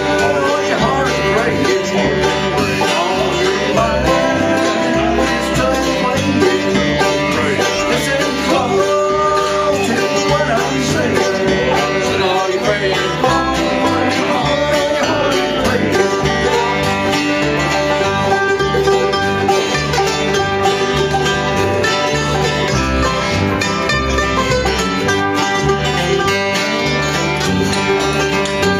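Live bluegrass band playing an instrumental passage: 5-string banjo, mandolin and guitar over a walking upright bass line.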